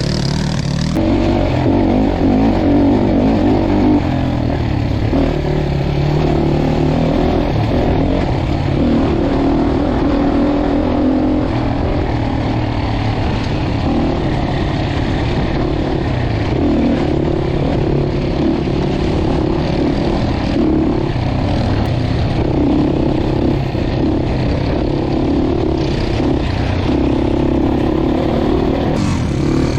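Dirt bike engine running as the bike is ridden, its note rising and falling with the throttle.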